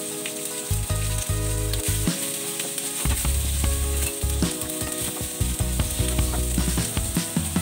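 Zucchini wedges and pieces of char siu pork sizzling in hot oil in a pan, with a wooden spatula scraping and knocking against the pan as it stirs them.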